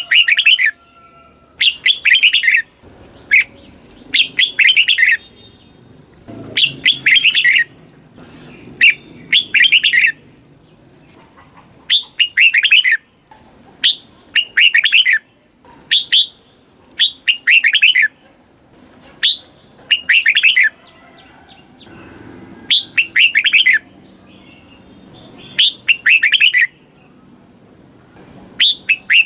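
Red-whiskered bulbul singing: short, bright warbling phrases about a second long, repeated every second or two with brief pauses between.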